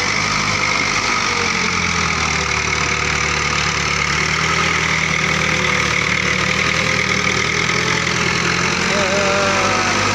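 Diesel tractor engines of a Fiat 640 and a Massey Ferguson 265 running hard under heavy load as they pull against each other, steady and loud, with a slight change in engine note about a second and a half in. The MF 265 is labouring, its 'breath' strained by the pull.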